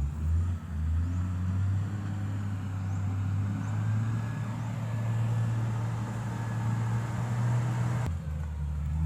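Diesel engine of a heavy road-repair machine running steadily, its pitch edging up a little, then changing abruptly about a second before the end.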